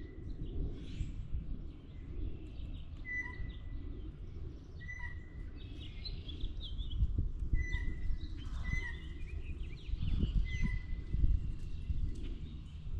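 Wild birds calling: one short, steady whistled note repeated about six times, with fainter chirps higher up, over a low rumble broken by a few dull thuds.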